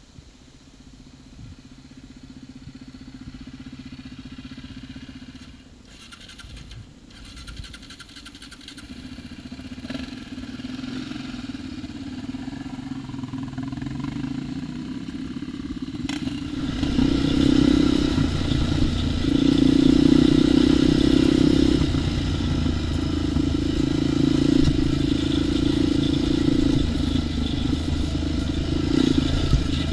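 ATV engine running, faint at first and getting steadily louder, then from about halfway through running loud with the revs rising and falling as it is ridden hard.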